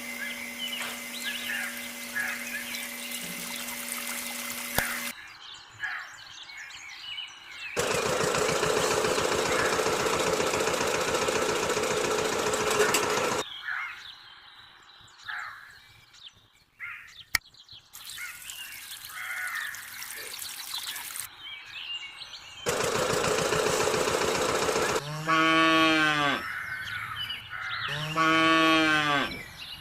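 A farmyard soundscape: small birds chirping, two stretches of steady rushing noise, and a cow mooing twice near the end.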